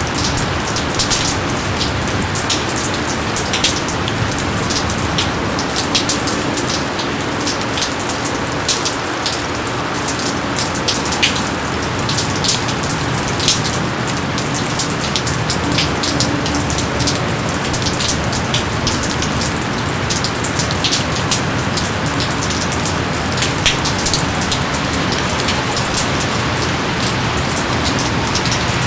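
Steady rain, with a continuous hiss and many sharp, separate drop splats on top.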